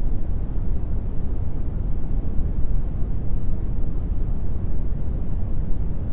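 Steady brown noise: an even, deep rushing hiss, heaviest in the bass and fading toward the treble, with no tones or separate sounds.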